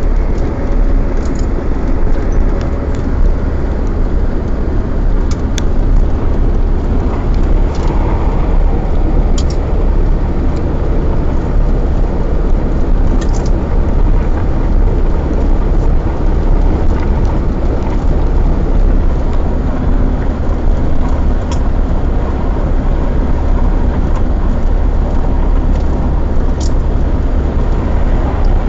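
Steady engine and road noise heard inside the cab of an Iveco vehicle being driven: a loud, even low rumble with a few faint ticks and rattles.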